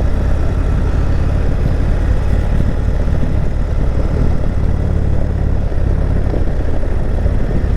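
Indian Chieftain Dark Horse V-twin motorcycle engine running steadily under load, pulling up a steep grade, with no change in pace.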